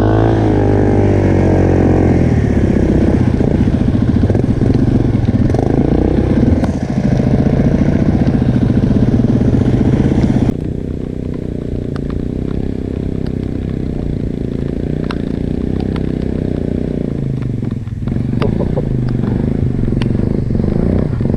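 Enduro motorcycle engine running and revving. About halfway through, the sound changes abruptly to a duller, quieter engine note with scattered clicks and knocks.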